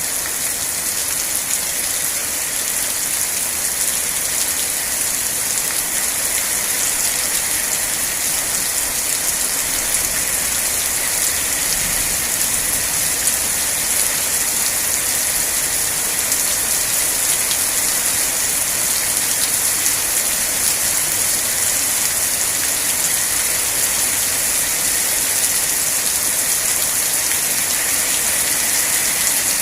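Steady rain falling and pattering on surfaces, an even hiss brightest at the high end.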